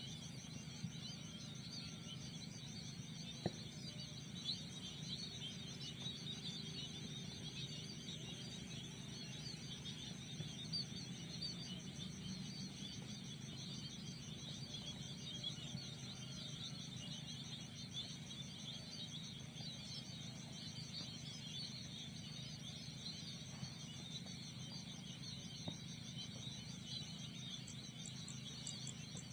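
Outdoor ambience of a steady, rapidly pulsing insect trill with dense high chirping beneath it and a low steady rumble, broken by a few faint clicks.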